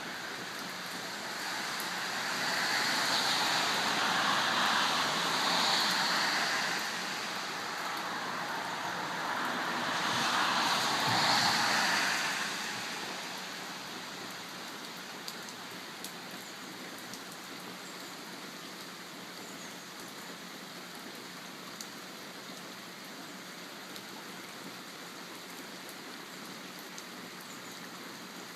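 Steady rain falling, a fine hiss with occasional faint drop clicks. A louder rushing noise swells up twice in the first twelve seconds or so, then dies back to the rain alone.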